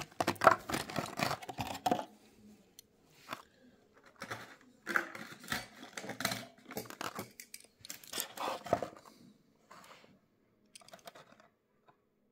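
Hands handling a small diecast model car and its plastic packaging: irregular bursts of crinkling, clicking and scraping, in several clusters with short pauses between.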